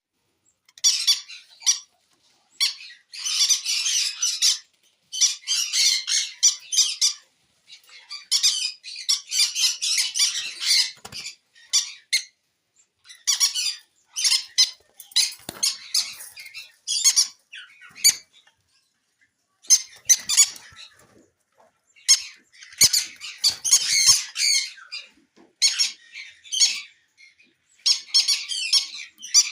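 Conures chattering and squeaking in high-pitched bursts of up to a couple of seconds, broken by short silences.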